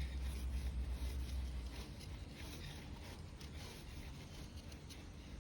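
Knife blade shaving thin curls off a wooden stick to make a feather stick: faint, irregular scraping strokes. A low rumble runs under the first two seconds.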